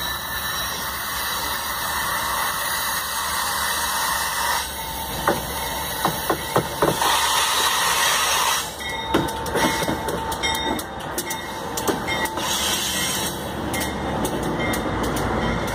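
Empty ore freight train rolling past, the wagons' wheels running steadily on the rails. A cluster of sharp clacks comes about five to seven seconds in, and more clatter follows in the second half.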